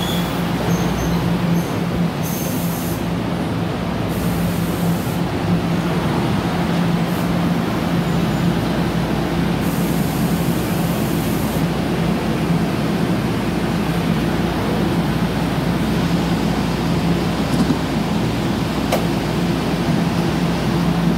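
NJ Transit bilevel commuter train rolling past along the platform and slowing to a stop, with a steady low hum and a few brief hisses of air in the first half. A single sharp click comes near the end.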